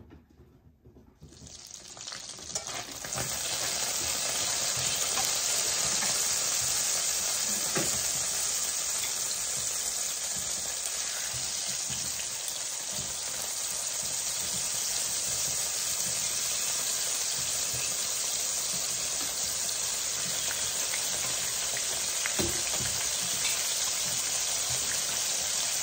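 Cod loins frying in salted butter in a frying pan: a steady sizzle that builds up about two seconds in and then holds. A couple of faint knocks come through it.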